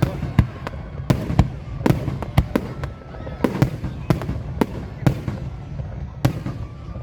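Aerial fireworks exploding: a rapid, irregular series of sharp bangs, roughly two a second, over a continuous low rumble.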